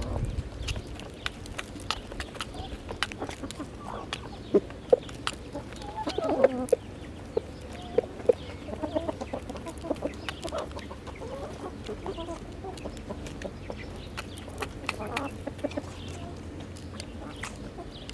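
A flock of chickens clucking softly while feeding, with many sharp clicks and taps scattered through.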